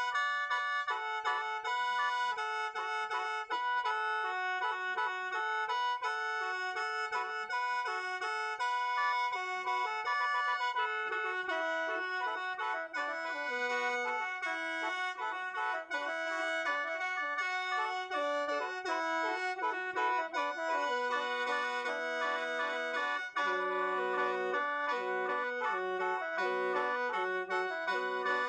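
Lao khaen, the bamboo free-reed mouth organ, played solo in the lam Phuan style: a melody of held notes over steady drone notes. Lower notes join in about three quarters of the way through.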